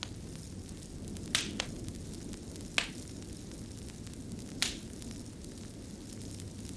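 Fire burning with a steady low rush and four sharp crackling pops, the loudest about three seconds in.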